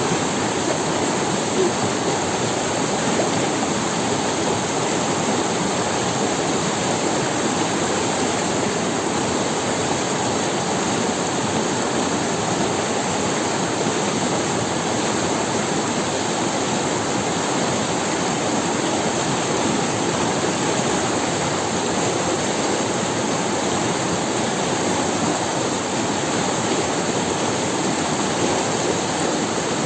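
A rocky forest river running over stones, a steady rushing of water with no change.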